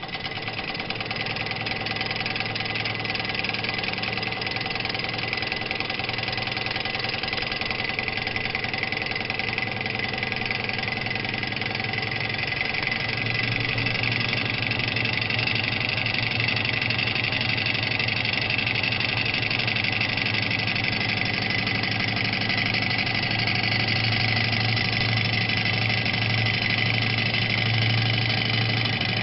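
Small model Stirling engine running, a fast, even mechanical whirring clatter that picks up over the first couple of seconds and then holds a steady speed.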